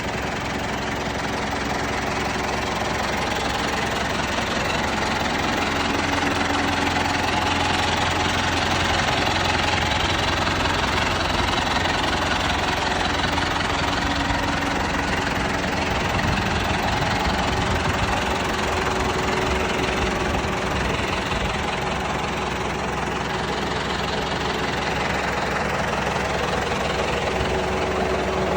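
John Deere 5100R tractor's diesel engine running steadily, with no breaks.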